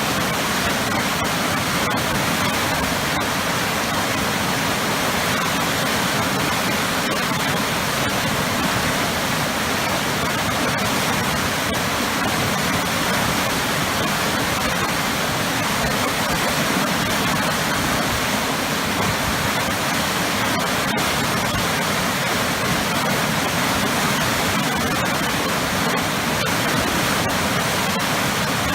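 Powerful waterfall with heavy churning water, a loud, steady rush that does not let up.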